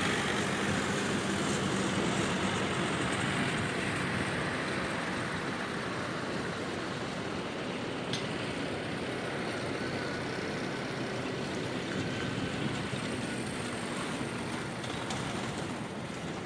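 Tractor engines running steadily as tractors drive along the road, easing off slightly toward the end.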